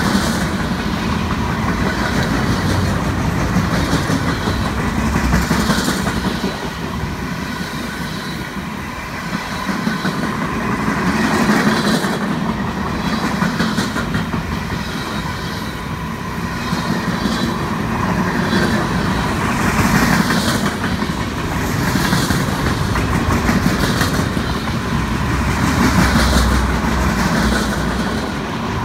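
A long string of empty military flatcars rolling past at speed, steel wheels clicking over rail joints in a repeating clickety-clack over a steady rolling noise.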